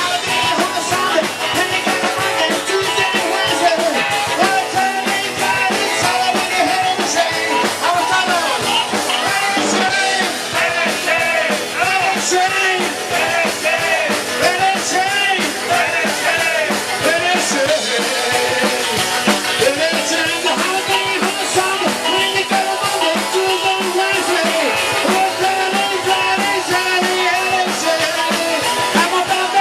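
Live rock and roll band playing with drum kit and guitar, a lead line of short notes bending up and down in pitch over the top.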